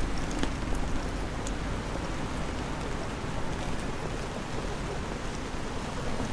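Steady rain falling in a wet city street, with scattered drops ticking close by over a low rumble.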